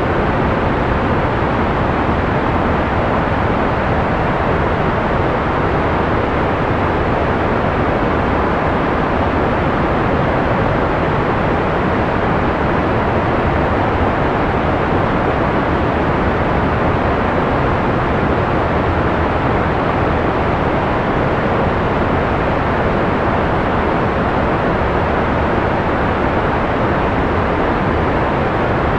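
Analog white noise: a steady, even hiss that never changes, with its treble rolled off so it sounds soft and dull rather than bright.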